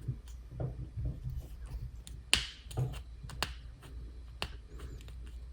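Scattered plastic clicks and taps from an articulated action figure being posed by hand, its arm and torso joints being worked, with one sharper click a little past two seconds in.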